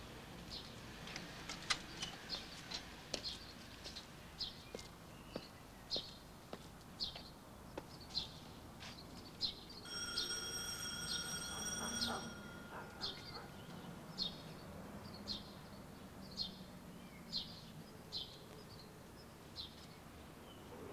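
A small bird chirping, one short high chirp about every second. Around the middle an electric doorbell buzzes for about two seconds in short pulses, and there are a few footsteps near the start.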